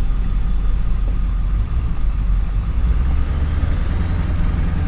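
Pickup truck carrying a camper, driving on a dirt and gravel road, heard from inside the cab: a steady low engine rumble with tyre and road noise. The engine note gets a little stronger near the end.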